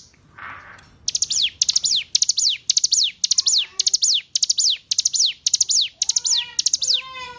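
Ciblek gunung (mountain prinia) singing: rapid, high, sharp chirps, each a quick downward sweep, coming in tight clusters that repeat about three times a second. Near the end, lower chattering notes join in.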